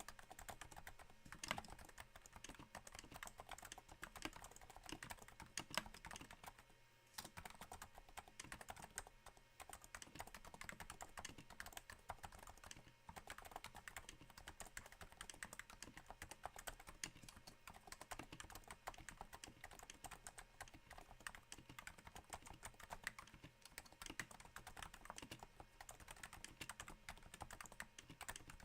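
Continuous quiet typing on a Cooler Master NovaTouch keyboard with Topre switches dampened by Hypersphere silencing rings: a steady patter of soft keystrokes that sounds a little like rain, with a brief pause about seven seconds in.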